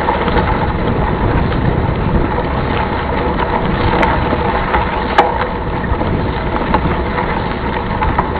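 Steady rumble of wind buffeting the microphone while riding a mountain bike, with a couple of short sharp knocks or rattles about four and five seconds in.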